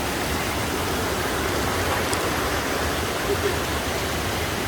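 Mountain spring water running in a steady, even rush.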